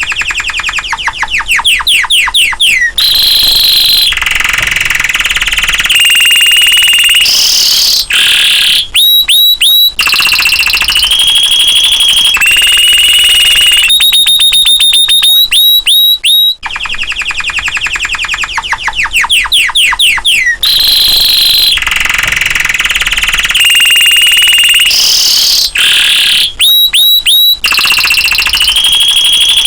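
Domestic canary in full, vigorous song: a long run of rapid trills, falling sweeps and held high notes. The same passage repeats about halfway through.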